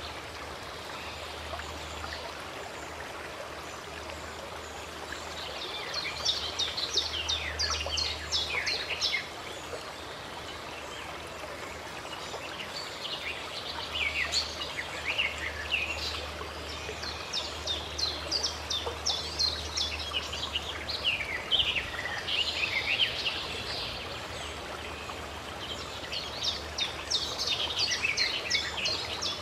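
Steady rush of running stream water, with songbirds singing rapid, high chirping phrases in three spells: about a fifth of the way in, through the middle, and near the end.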